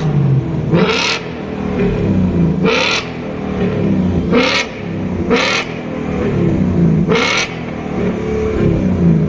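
A performance car engine being revved in repeated blips, its pitch rising and falling every second or two. A short burst of noise comes five times, at the revs' peaks.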